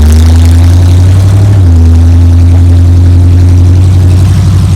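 Ride monster truck's big engine running loud and steady. Its pitch creeps up, drops suddenly about one and a half seconds in, then holds.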